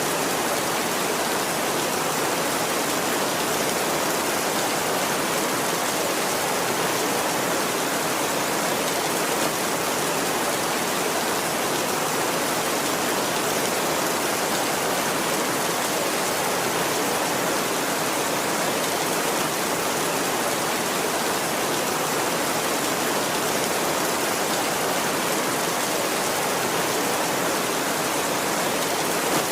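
Heavy rain falling steadily on a tin roof, an even hiss with no let-up.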